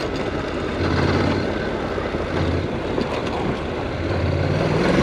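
Honda NC700X motorcycle's parallel-twin engine running as the bike rides over dirt, with wind on the microphone; the engine pitch rises near the end.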